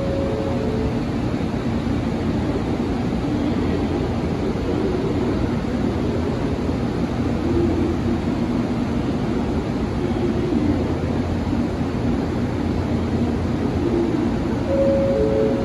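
Running noise of a JR Kyushu 883 series electric limited express train heard from inside the passenger car: a steady rumble and roar from the wheels and motors. A short two-note falling tone sounds near the start and again near the end.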